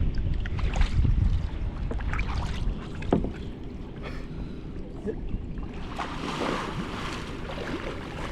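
Wind rumbling on the microphone aboard a kayak, with water sounds and scattered light knocks; a louder spell of hiss comes in about six seconds in.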